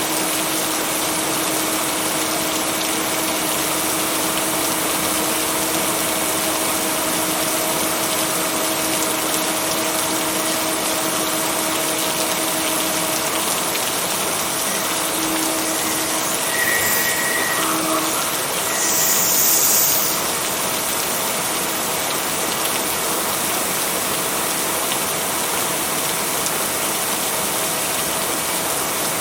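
Steady rain, an even unbroken hiss, with a faint steady hum underneath and a brief louder, brighter hiss about two-thirds of the way through.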